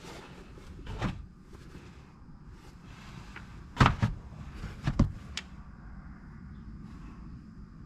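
Sharp knocks and clunks of chainsaw parts and tools being handled: one about a second in, then several close together around four and five seconds in, over a low steady hum.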